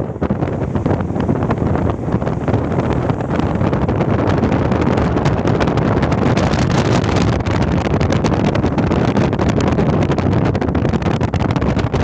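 Loud, steady wind buffeting the microphone over the rumble of a fast-moving vehicle.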